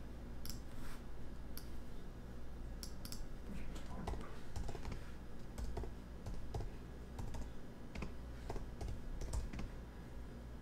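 Typing on a computer keyboard: irregular key clicks as a short phrase is typed.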